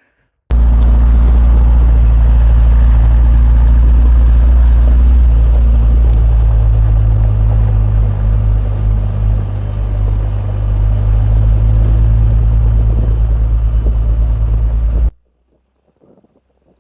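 A heavy vehicle engine running loud and steady with a deep, low drone. It cuts off suddenly near the end.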